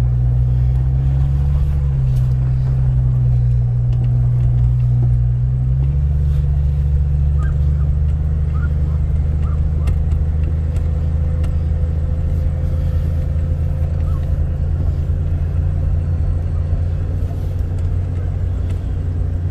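Jeep engine running as it drives, heard from inside the cab, a steady low drone whose note steps up about six seconds in.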